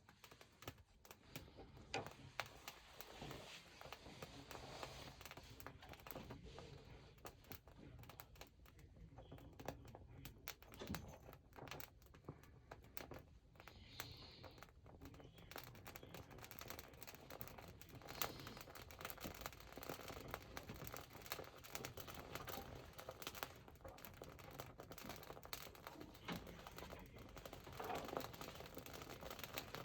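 Freshly lit wood fire catching, with faint irregular crackles and pops.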